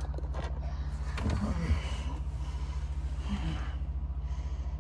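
A man breathing hard and gasping with effort as he strains to reach up under a sink cabinet, a few soft breaths over a steady low hum.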